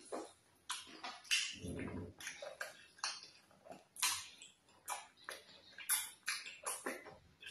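Close-miked wet mouth sounds of eating fufu and vegetable soup by hand: irregular sharp lip smacks and sticky chewing clicks, with a brief low rumble about two seconds in.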